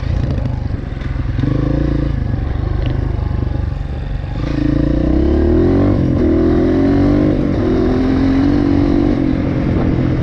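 Dirt bike engine running under the rider, the throttle opening up about four and a half seconds in so it gets louder, with its pitch rising and falling as the rider works the throttle.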